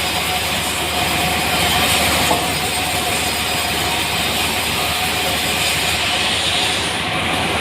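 Sawmill machinery running steadily: a continuous mechanical noise with a steady tone over it, without a break.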